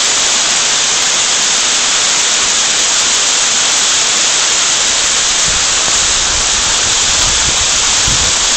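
A waterfall rushing with a loud, steady roar of falling water. Low rumbles come and go in the second half.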